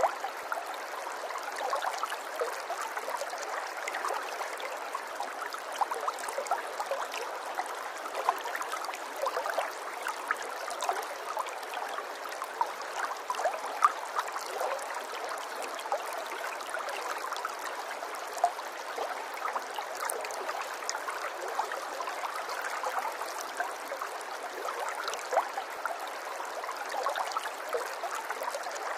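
Running water flowing steadily, with many small quick plinks and bubbles over an even rush and no deep rumble.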